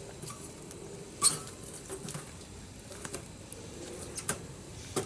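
Wood campfire crackling: a low steady hiss with irregular snaps and pops, the sharpest one about a second in.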